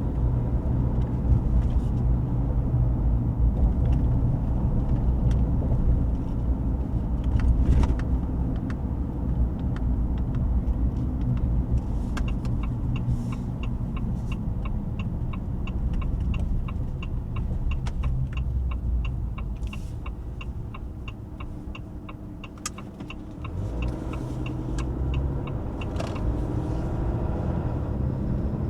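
High-output Cummins diesel of a Ram 2500 running under way, heard from inside the cab. From about the middle a regular clicking, about three a second, runs on for over ten seconds, typical of a turn-signal indicator. The engine sound eases off briefly near three-quarters through and then builds again.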